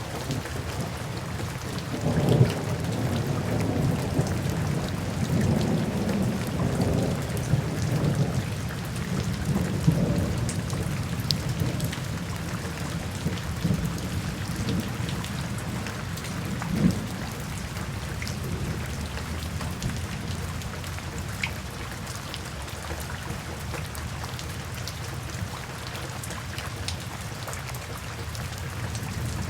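Steady rain falling, with scattered drop ticks. Low thunder rumbles roll through, mostly in the first ten seconds, with a sharper single peak about 17 seconds in.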